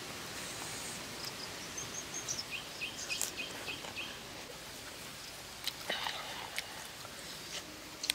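Steady outdoor background hiss with a bird giving a quick run of short, repeated chirps a couple of seconds in, and a few sharp clicks near six seconds.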